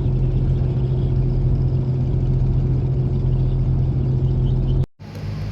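Boat engine running steadily with a deep hum. About five seconds in it breaks off abruptly, then a quieter engine hum carries on.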